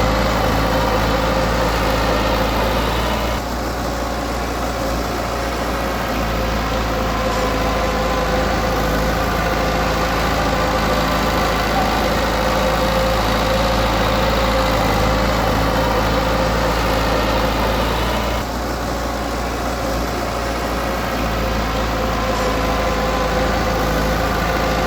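Heavy diesel engine of earthmoving equipment running steadily under light load, easing off briefly twice, about three and a half seconds in and again near the eighteen-second mark.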